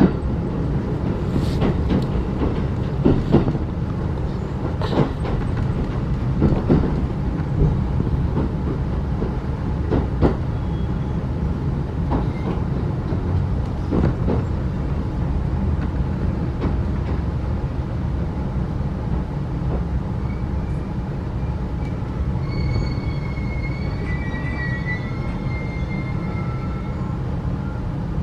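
Interior ride noise of a 35-series passenger coach running on jointed track: a steady low rumble with irregular wheel clicks over rail joints in the first half. In the last third the running gear adds a thin, high, wavering squeal for several seconds.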